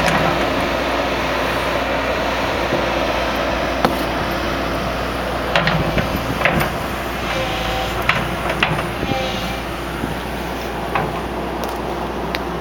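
Excavator engine running steadily, with a scattering of sharp knocks and clanks from the machine as it works.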